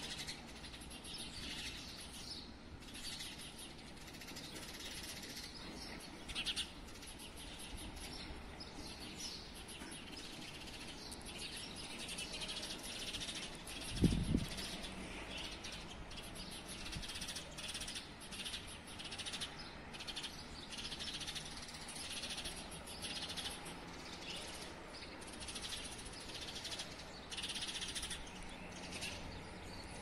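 Many small birds chirping and twittering over and over, several calls overlapping. A single brief low thump comes about halfway through.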